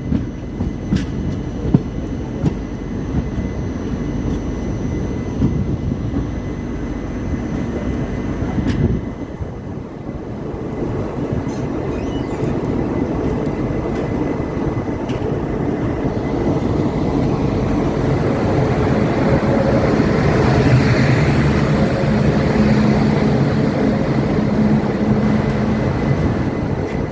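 Express train hauled by WAG-9 and WAG-7 electric locomotives running into a station: wheels clicking over rail joints and a steady rumble that grows louder, loudest about two-thirds of the way in, with a steady electric hum from the locomotives.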